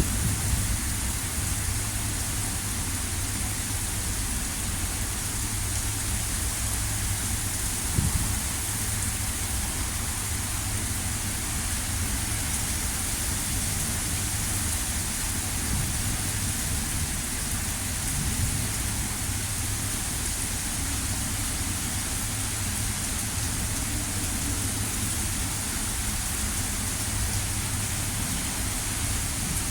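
Heavy rain pouring steadily during a severe thunderstorm, with a low rumble underneath and one brief thump about eight seconds in.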